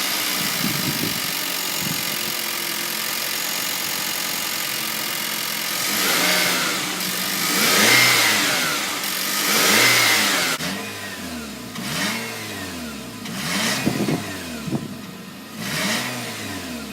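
2018 Nissan Rogue Sport's 2.0-litre inline-four engine idling steadily. After about six seconds it is revved several times: three longer revs rising and falling in pitch, then a run of shorter throttle blips.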